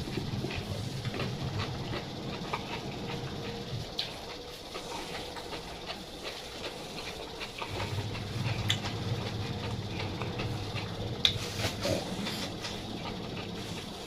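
Close-miked chewing and mouth sounds of someone eating, with scattered small wet clicks and smacks.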